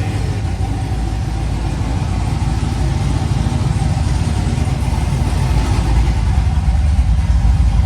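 Chevrolet Trailblazer SS's built 6.0 L V8 idling on its first run after the build, with a choppy, uneven beat that gets slightly louder toward the end.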